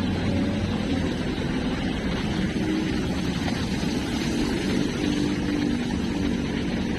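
Steady drone of an engine over a constant low rumble.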